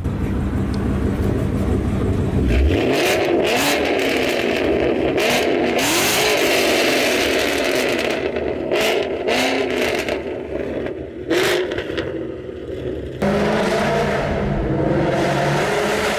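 Ford Mustang GT's V8 idling, then revved repeatedly, several rising and falling blips, before settling back to idle near the end. It breathes through long-tube headers, an X-pipe and Roush axle-back mufflers with the resonators deleted, giving the loud, raspy exhaust tone.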